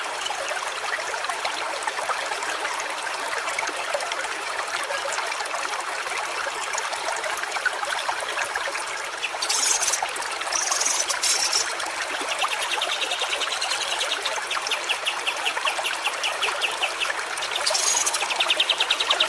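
Stream water running and trickling steadily. From about two-thirds of the way in, a fast pulsed buzzing trill joins it, and there are a few brief louder hissing bursts.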